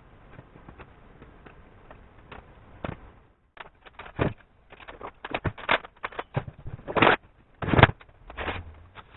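A run of irregular clicks and knocks, like parts and tools being handled on a workbench. It is sparse at first, then denser from about three seconds in, with two louder knocks in the second half.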